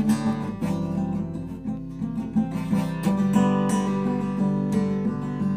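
Acoustic guitar strummed in a steady rhythm, chords ringing on between the strokes, with no singing over it.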